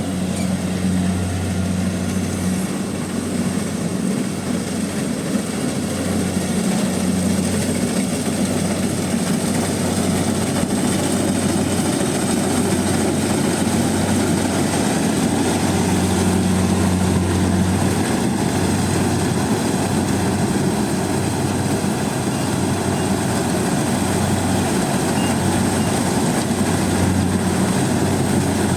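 Rice combine harvester running steadily as it works, a low engine drone with a dense mechanical noise over it.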